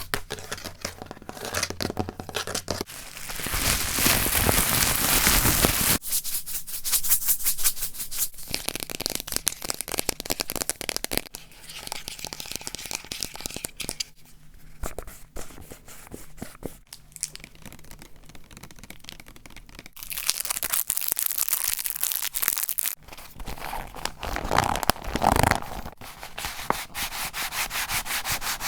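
A rapid run of close-miked ASMR triggers made by hands on small objects: rubbing and scratching hiss alternating with quick fine tapping, switching to a new object every few seconds.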